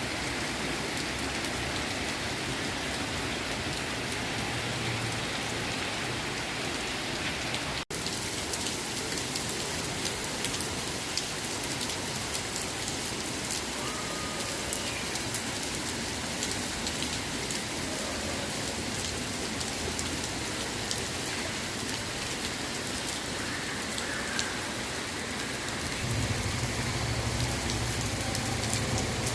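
Heavy rain pouring steadily onto surfaces, with a brief dropout about eight seconds in. A low rumble joins near the end.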